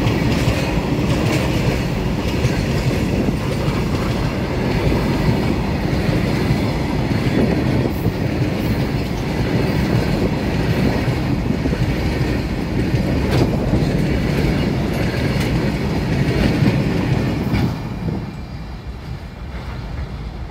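Long freight train of covered boxcar wagons passing close by: a steady rumble of rolling wheels with clattering over the rails. About eighteen seconds in the last wagon goes by and the noise drops off as the brake van recedes.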